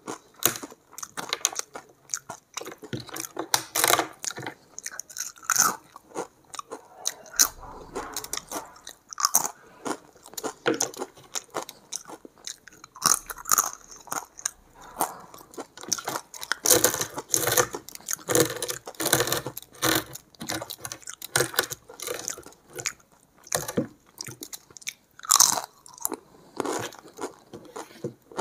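Close-miked chewing of hand-fed rice mixed with egg curry and broken papad: a dense, irregular run of crunches and bites.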